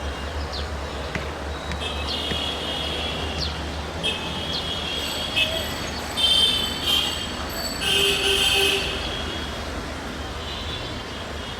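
A passenger train's coaches rolling past with a steady low rumble, their wheels squealing in high tones that come and go, loudest about six and eight seconds in.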